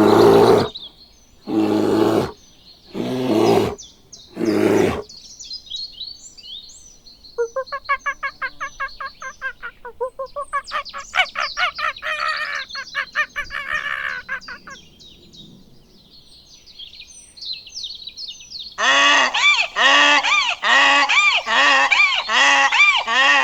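A sequence of farm animal and bird calls: four loud harsh cries in the first five seconds, small birds chirping, a long rapid chattering call in the middle, then a regular run of honking calls about two a second near the end.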